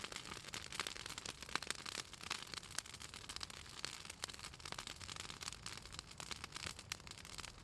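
Pruned southern magnolia branches burning in an open wood fire, crackling with many sharp, irregular pops over a steady hiss. The oil in the wood makes it crackle this much.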